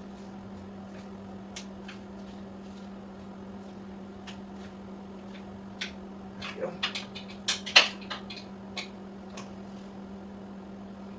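Scattered sharp clicks and metallic clinks of hand tools and hardware being handled, with a cluster of louder clinks just past the middle, over a steady low hum.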